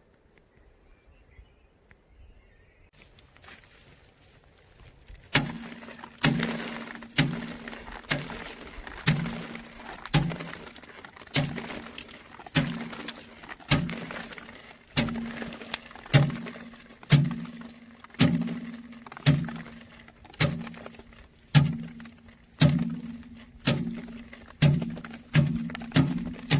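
Sorghum heads being beaten by hand to thresh out the grain: sharp thwacks about once a second, each with a short hollow ring, starting about five seconds in and quickening near the end.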